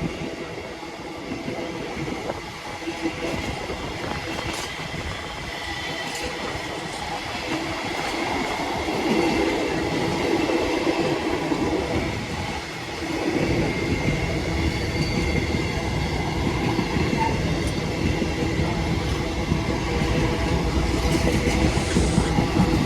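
Freight train rolling past on the rails, a continuous rumble that grows deeper and stronger about halfway through.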